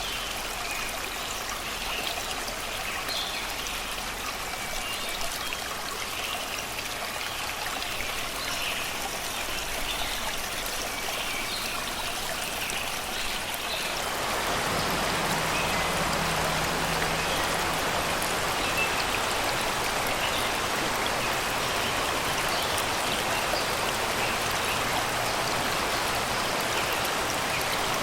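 Shallow river rushing and babbling over rocks and stones, a steady rush of water that becomes louder and fuller about halfway through. Faint birdsong over the water in the first half.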